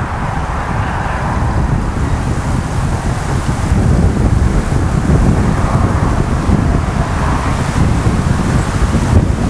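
Wind buffeting the microphone: a loud, uneven low rumble that grows louder about four seconds in.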